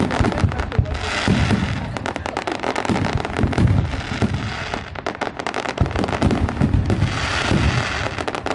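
Fireworks going off in a near-continuous barrage of sharp bangs and pops, with bursts of crackling about a second in and again near the end.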